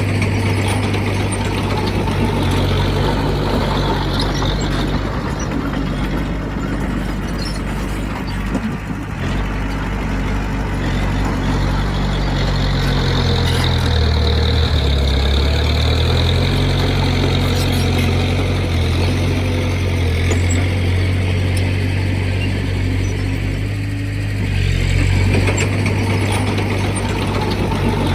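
Heavy diesel engine of earthmoving equipment (bulldozer or dump truck) running steadily. Its speed dips for a couple of seconds about halfway through, then picks up again.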